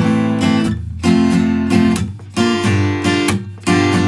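Taylor Builder's Edition 324ce steel-string acoustic guitar strummed in a swung rhythm, changing chords through an A minor, F, G7 progression.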